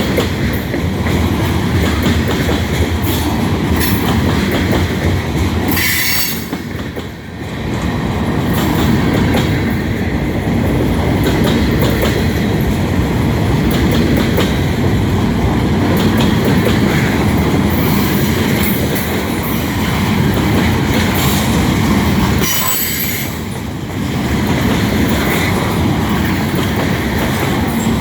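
Freight train cars rolling past as the train slows, wheels clattering over the rail joints with high-pitched wheel squeal. Brief sharper squeals come about six seconds in and again near the end, each followed by a short dip in loudness.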